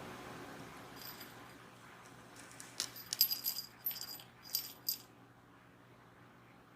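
A small bell on a cat toy jingling in a run of quick shakes for a couple of seconds, from a kitten batting at the toy.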